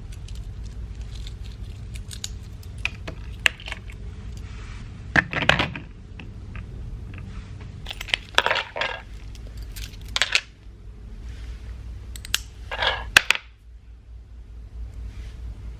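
Small hard objects being handled and set down: scattered clicks and light clatter, with a few short rustling scrapes, over a steady low hum.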